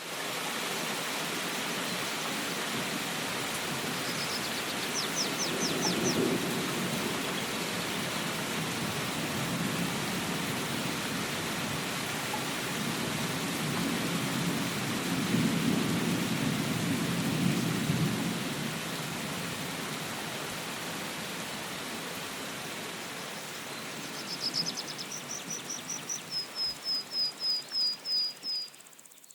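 Steady rain, with low thunder rumbles swelling about six seconds in and again for a few seconds in the middle. A bird gives short runs of quick high chirps near the start and again near the end.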